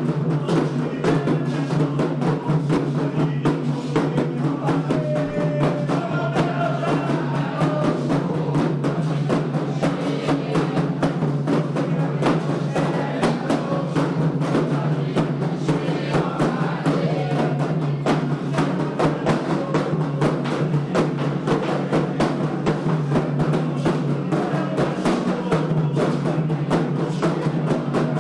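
Candomblé ritual drumming on atabaque hand drums, a dense, steady rhythm, with voices singing faintly over it.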